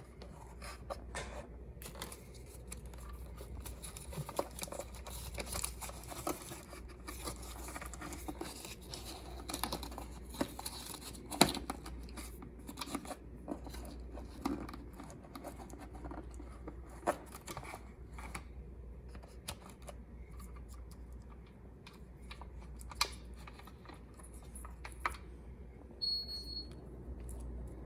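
Rustling and crinkling with scattered clicks and taps of things being handled, over a low steady hum. A short high electronic beep sounds once, near the end.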